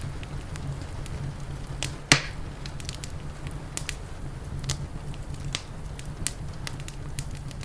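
Wood fire crackling: scattered sharp snaps and pops, with one loud pop about two seconds in, over a steady low rumble.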